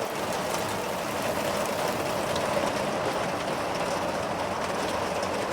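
Hard rain pouring down steadily.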